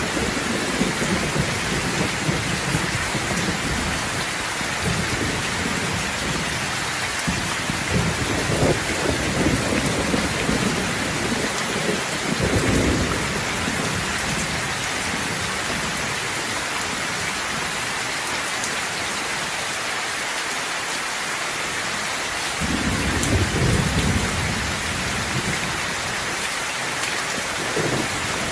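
Steady heavy rain falling, with thunder rolling in several deep, drawn-out rumbles: one at the start, one about twelve seconds in, and a stronger one in the last third.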